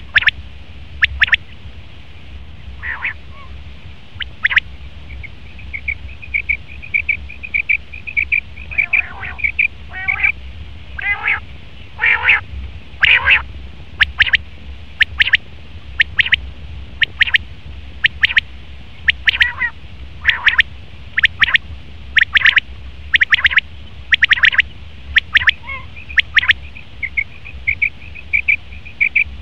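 Male common quail calling: short, sharp notes repeated about once a second, sometimes in quick twos and threes, with stretches of rapid trilled notes in between.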